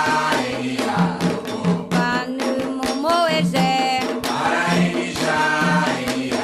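Candomblé Ketu chant for Xangô, sung voices over a steady drum and percussion rhythm with many quick strikes.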